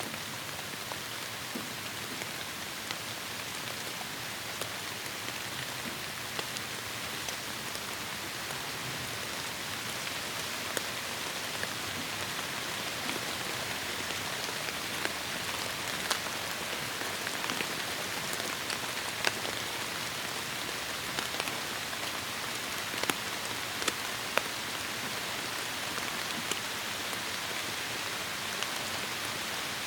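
Heavy rain falling steadily on forest foliage, an even hiss with frequent sharp ticks of individual drops hitting nearby surfaces, the ticks coming more often in the second half.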